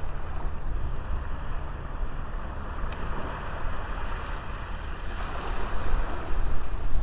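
Sea waves washing onto a small beach, swelling louder near the end, with wind buffeting the microphone as a low rumble.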